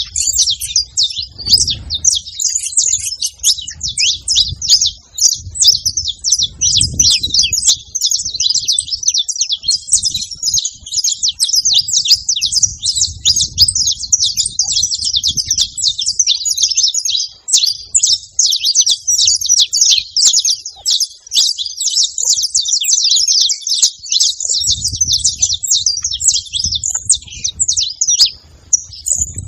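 Saffron finch chirping continuously in a rapid, unbroken stream of high notes.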